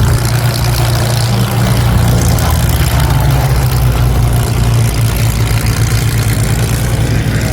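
Propeller aircraft engine running steadily as a loud, low drone.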